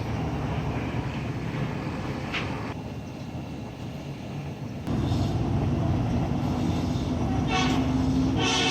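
Small electric blower or fan motors running with a steady whir. About five seconds in it jumps abruptly louder, with a low hum that grows stronger near the end before cutting off suddenly.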